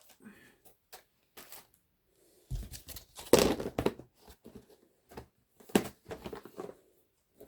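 Paper and card being handled on a desk: rustling and light taps, with a thump and a longer rustle about two and a half seconds in.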